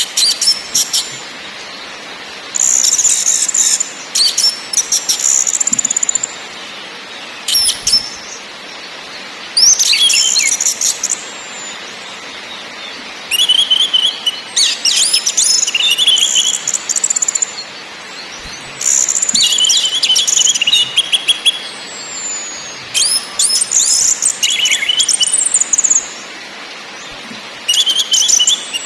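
Orange-headed thrush calling in repeated bursts of rapid, harsh chattering mixed with short whistled notes, one every couple of seconds, over a steady background hiss.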